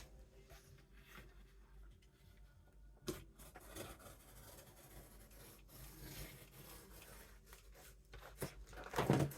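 Faint cutting of poster board as the excess is trimmed off, with a sharp click about three seconds in and a louder sound near the end.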